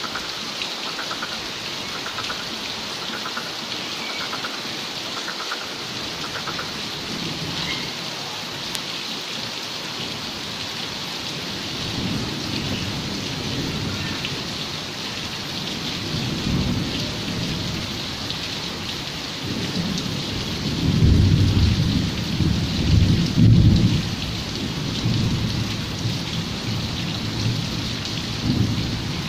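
Heavy rain falling steadily on the yard and on the glass louvre window. Thunder rumbles in from about halfway through and is loudest in the last third, then eases.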